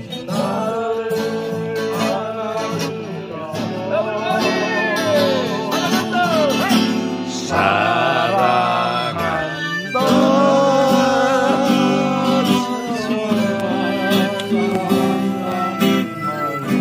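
Strummed acoustic guitar chords with a melody line played or hummed over them during the instrumental break between verses.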